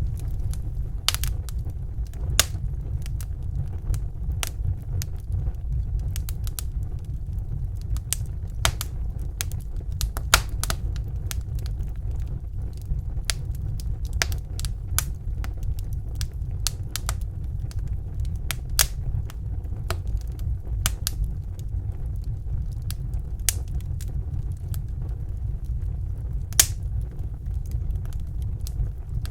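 Fireplace fire crackling, with irregular sharp pops a few times a second over a steady low rumble.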